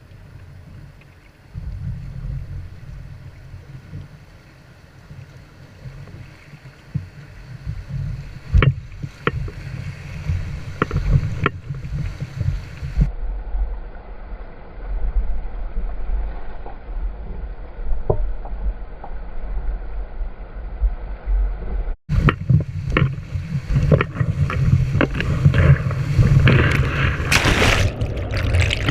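Kayak on a river: wind rumbling on the microphone over rushing water, with sharp knocks and splashes now and then, and louder splashing near the end.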